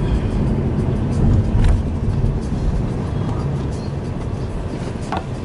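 Car driving along, its steady low road and engine rumble heard from inside the cabin, with a few light clicks.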